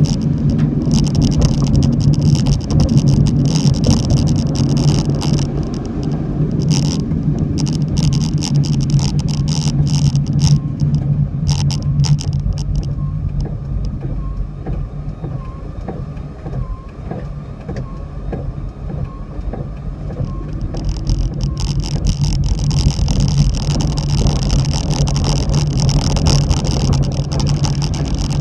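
Car driving in heavy typhoon rain: a steady low engine and road drone, with a high hiss that fades through the middle and returns near the end.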